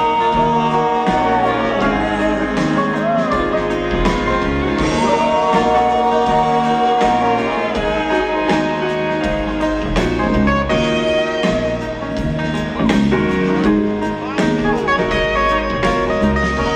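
Live band playing an instrumental break with a steady beat and held, bending melody lines over strummed strings, lead possibly sax-like.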